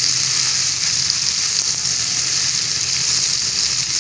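Stuffed okra frying in oil in a pan over high heat, sizzling with a steady hiss as its moisture cooks off.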